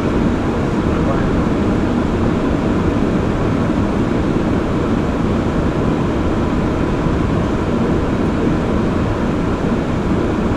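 Steady low rush of airflow and engine noise heard from the flight deck of an Airbus A340 on final approach, with the landing gear down.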